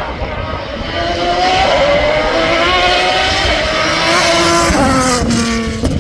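Racing car engine running hard at high revs, its pitch climbing for a few seconds, then falling steeply about five seconds in as the throttle comes off, with a sharp crack just before the end.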